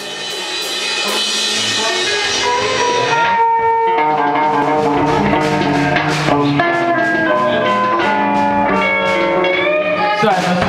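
A rock band playing: guitar notes over a drum kit, fading in over the first couple of seconds.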